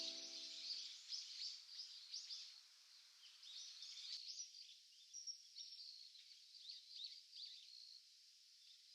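Faint wild birds chirping and calling, many short high chirps overlapping; the last notes of music die away in the first second.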